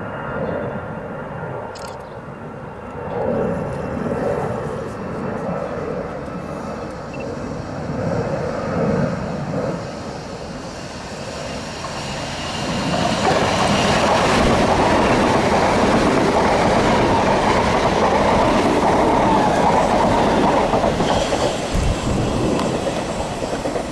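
Southern Class 377 electric multiple unit approaching and running past close by on the near line. Its wheel and running noise builds over the first dozen seconds, then turns to a loud, steady rush from about 13 seconds in as the train draws alongside.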